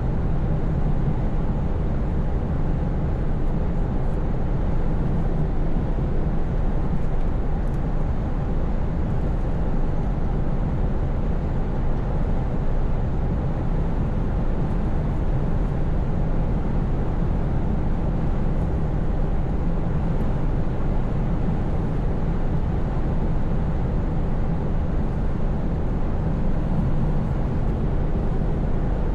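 Scania S580 truck's V8 diesel engine running steadily at cruising speed, with tyre and road noise, holding an even level without changes in revs.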